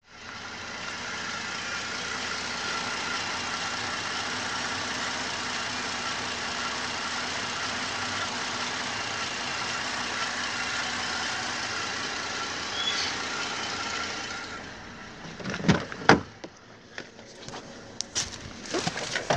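Holden Commodore 3.6-litre LLT V6 petrol engine idling steadily with the bonnet open. About fourteen seconds in, the engine sound drops away and a few sharp knocks and clunks follow.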